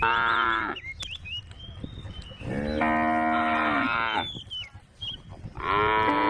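Cows mooing: three loud calls, the middle one the longest, with the last still going at the end. Faint high thin chirps sound in the gaps between calls.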